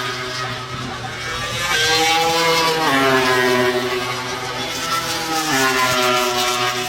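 MotoGP racing motorcycles running at high revs, their engine note climbing and then dropping sharply at upshifts, twice, with the sound swelling as the bikes pass.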